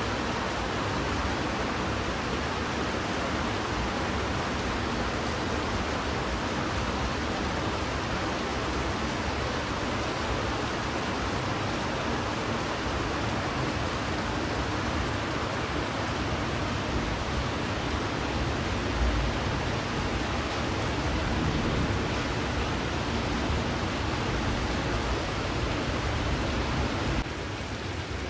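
Heavy rain falling steadily, an even hiss with no let-up; it turns suddenly quieter near the end.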